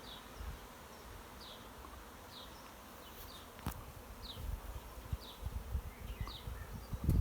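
Swarm of honeybees buzzing steadily around a hive they are being coaxed into. Short high chirps repeat about once a second, and low handling or wind rumbles come in during the second half.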